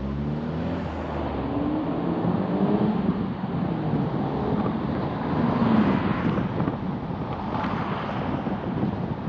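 Car driving along a road: steady tyre and wind noise over the engine, whose note rises as the car picks up speed in the first few seconds.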